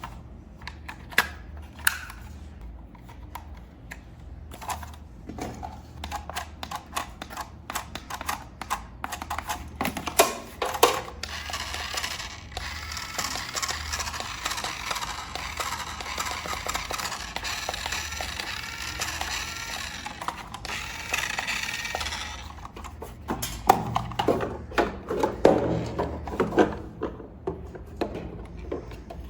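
Plastic toy parts being handled: irregular clicks and small knocks, with a denser, steady rustle or whir in the middle stretch.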